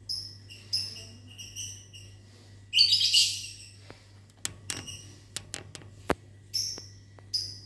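Lovebirds chirping in short, high, repeated calls, with a louder, denser burst of calls about three seconds in. A run of sharp clicks follows.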